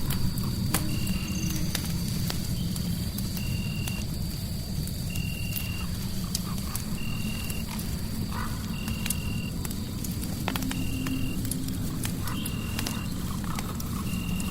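Crackling fireplace: a steady low rumble of fire noise with frequent sharp pops and crackles. Over it a short, high chirp repeats about every two seconds, with a thin steady high tone behind it.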